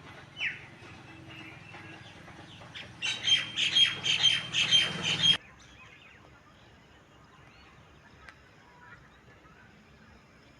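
A bird squawking: one short falling call, then a loud run of rapid, harsh repeated calls lasting about two seconds that stops abruptly.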